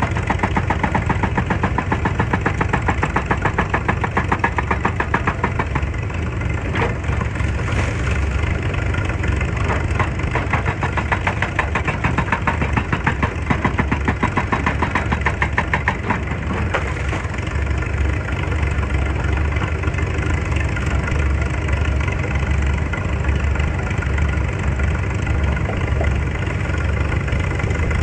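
Excavator's diesel engine running steadily with a low rumble and a fast, even pulsing beat, which smooths out a little past the middle.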